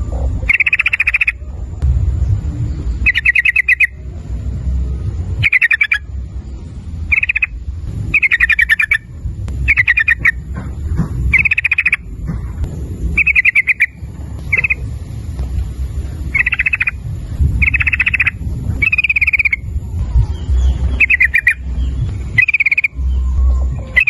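Yellow-vented bulbul calling: short, bubbly, rapidly warbled phrases repeated about once a second, over a steady low rumble.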